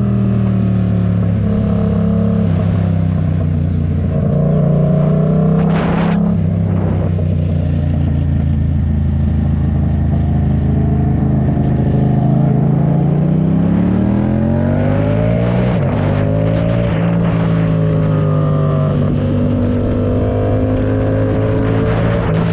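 Yamaha MT-07's parallel-twin engine running under way, its pitch climbing under acceleration and stepping down at gear changes, with a long climb about two-thirds through and a shift just after.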